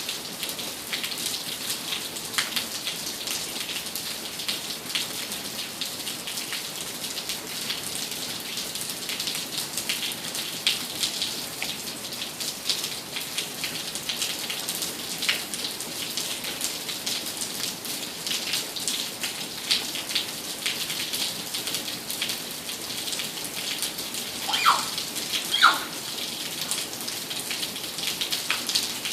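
Steady rain falling, with many individual drop hits heard through the hiss. Two brief high-pitched sounds come near the end.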